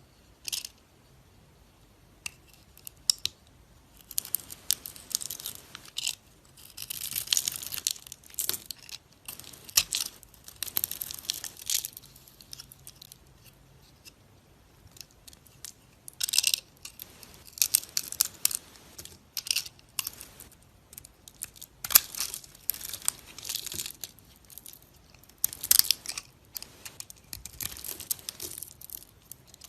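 Dry soap being cut with a knife: crisp, crunchy scraping strokes in bursts of a second or two, with short pauses between.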